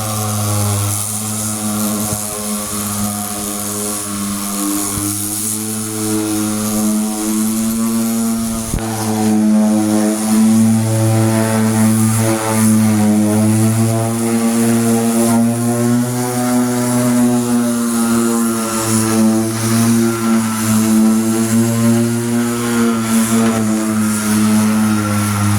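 Handheld electric power tool motor running steadily, working body filler on a truck door. Its pitch wavers slightly as the load changes, and there is a click about nine seconds in, after which it runs a little louder.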